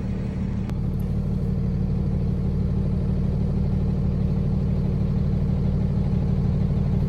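Box truck engine running steadily as the truck drives, its hum slowly growing louder, with a single click just under a second in.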